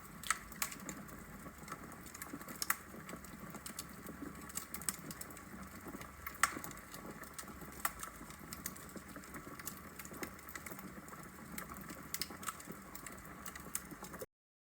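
Wood fire crackling: burning logs giving a steady low hiss with frequent irregular sharp pops and snaps. The sound cuts off abruptly near the end.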